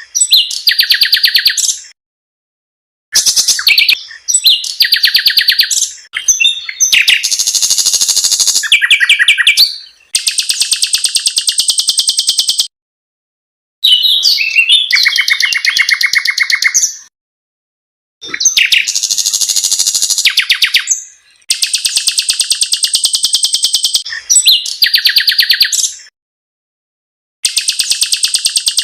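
Songs of small caged songbirds spliced one after another: loud high-pitched phrases of about one to three seconds, some harsh and rapid, some long fast rolling trills, with clean silent gaps between them.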